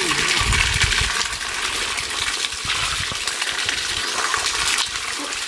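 Freshwater mussels clattering together as a pile of them is handled, many small hard shell clicks over some water noise.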